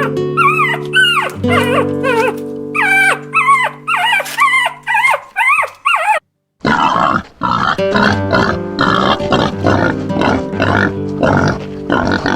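Repeated short animal calls over background music. The first calls are arched and pitched; after a brief cut to silence a little past halfway they come quicker and rougher.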